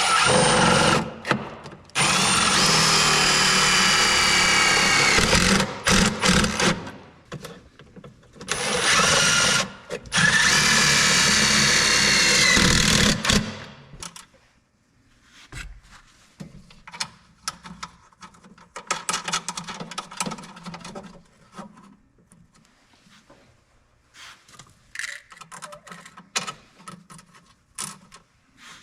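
Power drill running in about four bursts of a few seconds each, its whine shifting in pitch, as it drives screws. After about thirteen seconds it stops, leaving quieter clicks and rattles of parts being handled.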